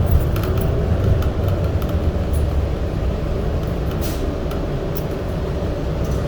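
Subway train running: a steady low rumble with a faint hum and scattered light clicks and rattles.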